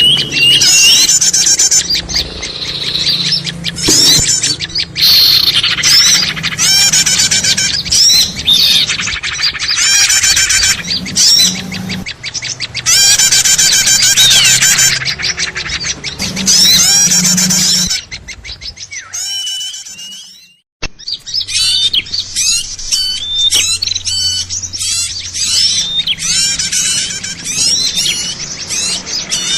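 Busy, noisy chorus of many small birds chirping and twittering over one another, loud and nearly continuous: a bird-lure call recording for small songbirds. It drops away and cuts out briefly about 20 seconds in, then the chattering starts again.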